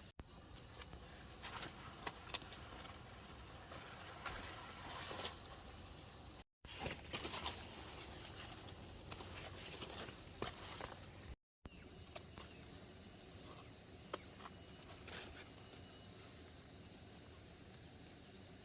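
Steady high insect chorus of crickets or cicadas, with scattered rustles and small knocks over it. The sound drops out briefly twice.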